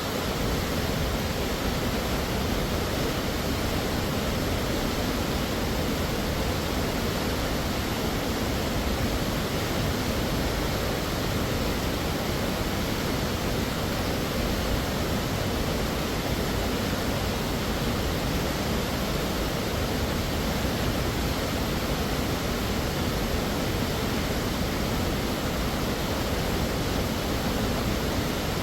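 Hamma Hamma Falls pouring: an even, unbroken rush of falling water.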